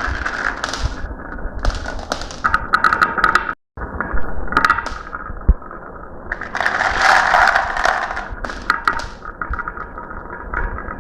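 Marbles rolling along a marble run track with a steady rattle and many sharp clicks as they knock against each other and the track. The sound cuts out briefly about three and a half seconds in, and from about six and a half to eight seconds there is a denser, louder rush of rolling.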